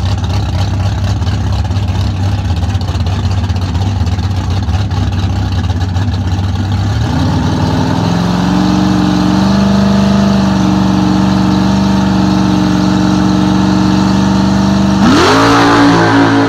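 1968 Camaro's engine idling with a low, choppy beat, then brought up to a higher held rev about seven seconds in. Near the end it is revved sharply higher with a sudden loud rise.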